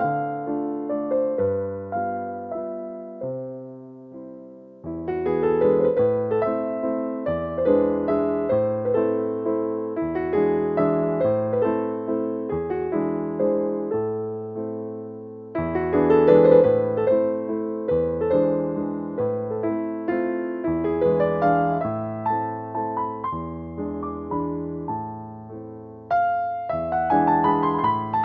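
Light classical piano music playing: gentle phrases of sustained notes that fade and start afresh about 5 seconds in, around 15 seconds and near the end.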